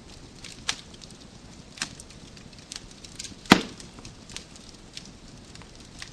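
Wood fire crackling in a fireplace: a soft steady hiss broken by sharp snaps and pops of burning logs, the loudest pop about halfway through.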